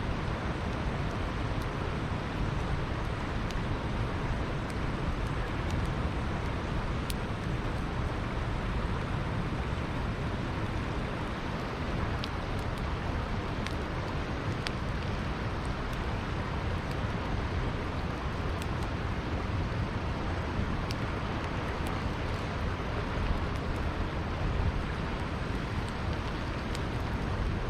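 Campfire crackling with sharp, irregular pops and snaps over the steady rushing of a flowing river.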